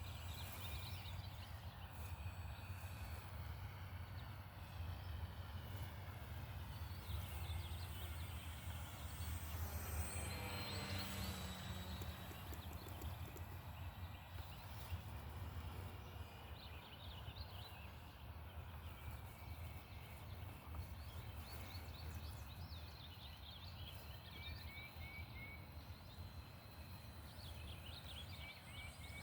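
Faint buzz of a Hobbyzone Carbon Cub S2's electric motor and propeller in flight, swelling as the plane passes close by about ten seconds in, over a steady low rumble of wind on the microphone, with birds chirping now and then.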